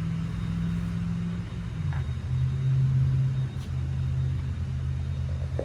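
Engine idling steadily, its pitch stepping down slightly about two seconds in, then stopping abruptly near the end.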